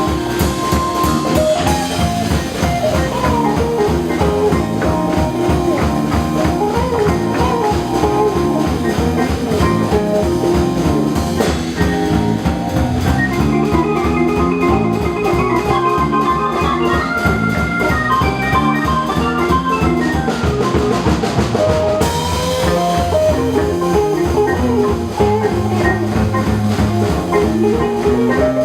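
Live band playing an instrumental break with no singing: a drum kit keeps a steady beat under bass and chords while a lead instrument plays melodic lines.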